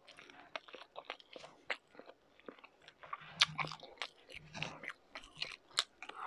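Close-miked eating sounds: chewing a mouthful of rice and cured meat, with many small wet smacks and mouth clicks. One louder click comes about three and a half seconds in.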